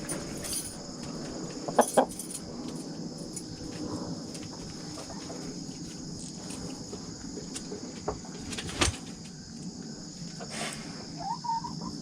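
Chickens clucking as they gather for bread, over a steady high chorus of insects, with a few sharp knocks.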